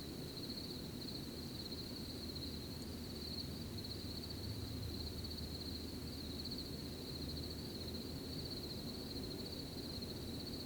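Crickets chirping in a continuous, high, finely pulsing trill, over a low, steady background noise.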